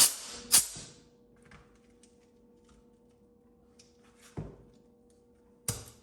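Short blasts of compressed air from an air nozzle pushed into a brake caliper's brake-line hole, forcing the piston out of its bore. There are two sharp blasts at the start, then two more, about four and five and a half seconds in.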